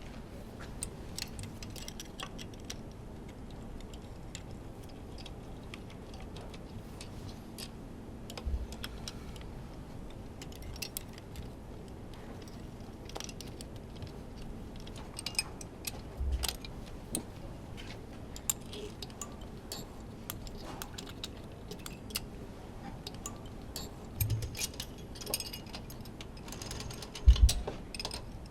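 Scattered light metallic clicks and clinks of hand tools and metal parts being handled while a Honda Formula One engine is taken apart, with four dull thumps, the loudest near the end.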